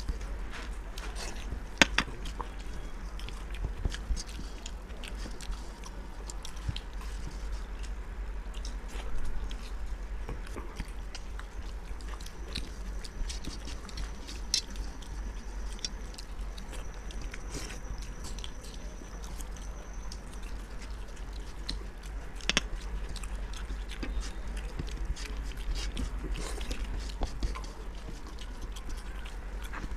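People eating khichuri: scattered chewing and short mouth clicks over a steady low hum.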